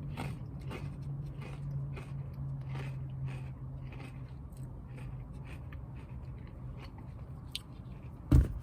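A person chewing crunchy chips, with crisp crunches about twice a second that grow fainter toward the end. A single loud thump comes near the end.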